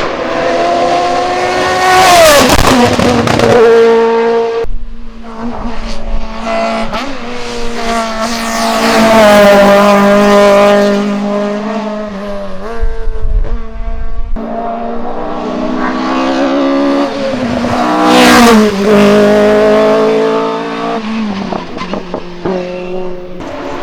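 Hillclimb race cars passing one after another at full throttle, engines revving high and shifting, with the pitch dropping sharply as a car goes by about two seconds in and again near eighteen seconds.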